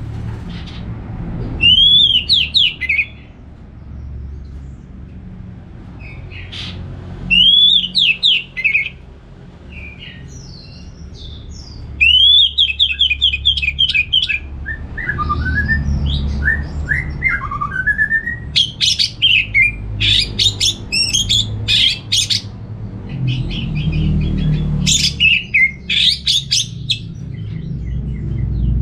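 Orange-headed thrush singing loud phrases of quick notes a few seconds apart, turning to faster, denser runs of song in the second half, over a steady low hum.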